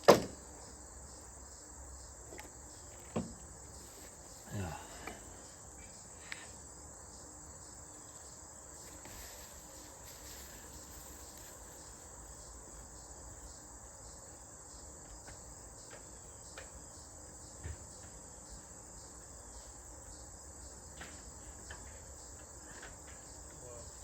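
Steady, high-pitched chorus of insects, chirring without a break. A sharp clack comes right at the start, and a few quieter knocks follow at about three seconds, five seconds and near eighteen seconds.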